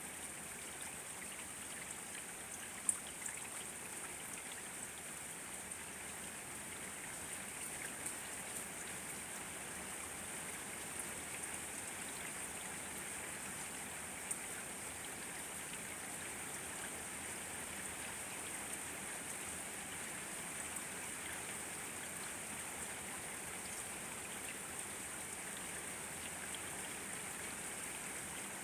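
Steady rainfall with scattered individual drop ticks, one louder drop about three seconds in.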